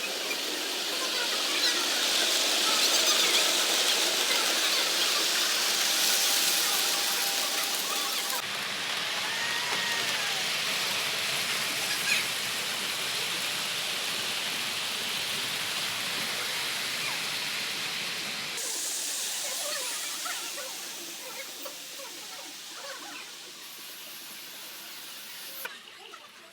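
Ambience of a model railway exhibition hall: a steady hiss of running model trains and room noise, with a short squeal about a third of the way in. The background changes abruptly twice, at cuts between clips, and is quieter in the last few seconds.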